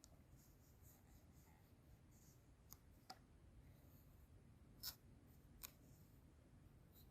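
Near silence with a few faint, sharp clicks, the clearest about halfway through.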